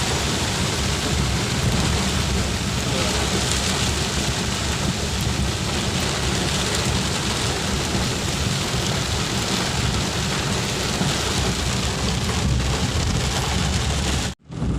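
Heavy rain falling steadily, a dense hiss with a low rumble beneath it. It breaks off abruptly for a moment near the end.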